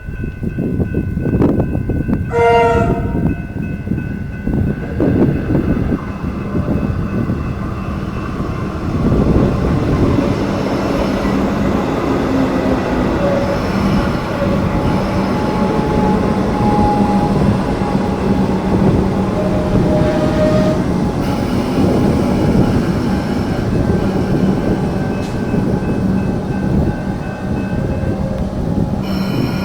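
Electric suburban train sounding a short horn blast about two seconds in, then running with continuous rail noise and a steady low electric hum.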